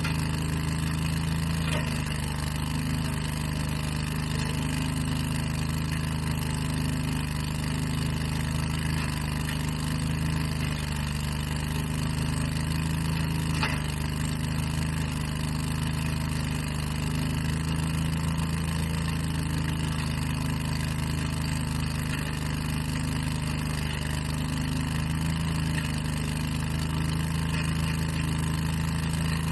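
Engine of commercial leaf-cleanup power equipment running steadily at working speed, a constant low drone.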